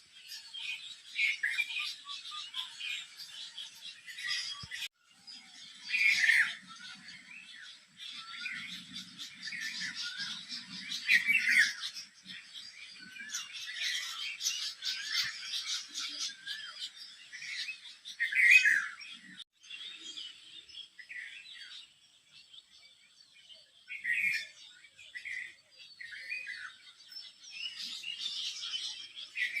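A chorus of many small birds chirping and calling at once, a dense tangle of short high notes, with a few louder calls standing out every few seconds.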